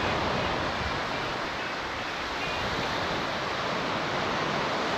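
Steady rush of sea surf on a beach mixed with wind.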